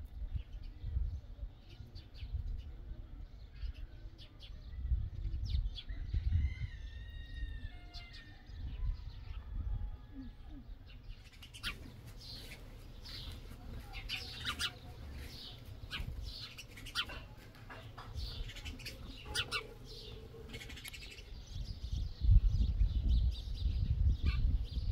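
Birds chirping and calling over a low rumble. A few short arched calls come about six seconds in, then a long run of quick, short chirps.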